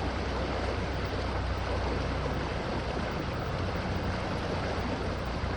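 River water flowing: a steady, unbroken rushing with a low rumble underneath.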